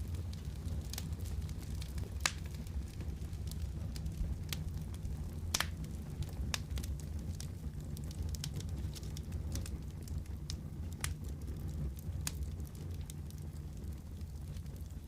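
Wood fire crackling in a fireplace: a steady low rumble of flames with scattered sharp pops and snaps, the loudest about two and five and a half seconds in.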